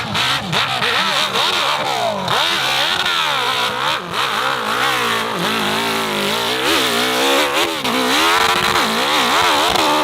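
Off-road motorcycle engine revving hard, its pitch rising and falling over and over as the throttle is worked.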